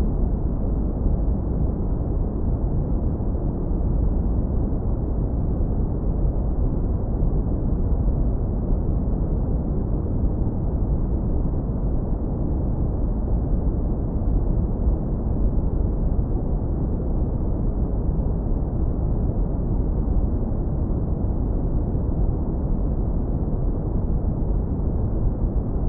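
Steady, deep brown noise, low-passed so that only a smooth, continuous rumble remains, with no high hiss.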